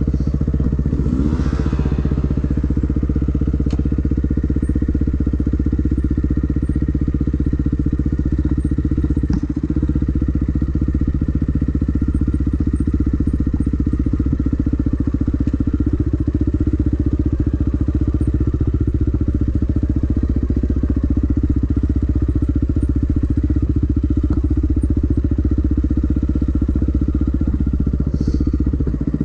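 Dirt bike engine running steadily, its revs changing little, with a brief pitch change about a second in.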